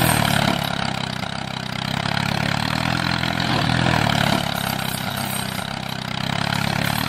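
An engine running at a steady idle, its sound swelling and easing a few times.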